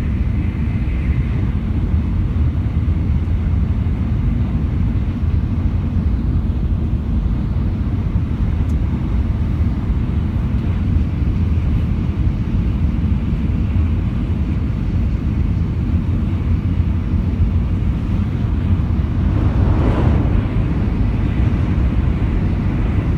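Shinkansen bullet train running at speed: a steady low rumble, with a brief rushing swell about 20 seconds in.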